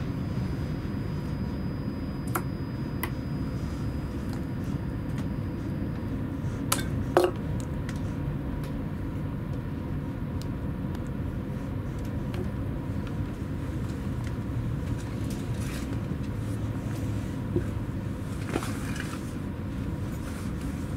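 Steady running rumble heard inside a loco-hauled Chiltern Railways passenger coach behind a Class 68 diesel locomotive, as the train runs into a station stop. A couple of sharp clicks stand out about seven seconds in, with another near the end.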